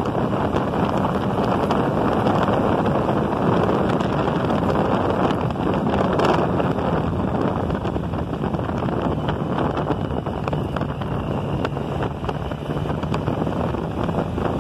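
Wind rushing over a motorcycle-mounted phone's microphone at riding speed, with the motorcycle engine's steady drone underneath. The engine note drops slightly about ten seconds in.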